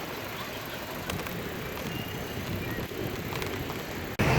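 Steady outdoor background noise with no distinct events. Near the end it changes abruptly to a louder rushing noise.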